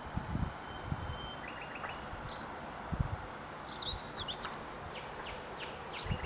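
Small birds chirping in short, quick downward-sweeping calls, coming thickest in the second half, over a steady outdoor background hiss with a few brief low thuds.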